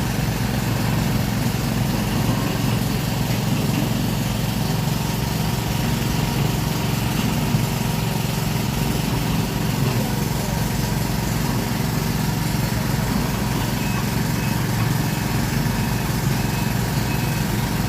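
Sumitomo SH210-5 hydraulic excavator's diesel engine running steadily at an even, low pitch.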